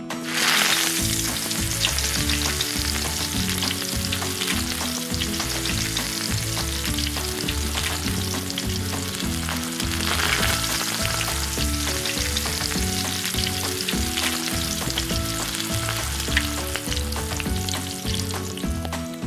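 Shrimp pancake batter frying in hot oil in a tiny pan: a dense sizzle that starts sharply as the batter goes into the oil, swelling again about ten seconds in.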